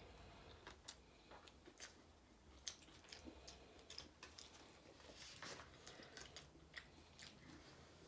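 A person chewing a mouthful of burrito-bowl food (rice, beans, chicken, fresh lettuce), faint with irregular wet clicks and light crunches.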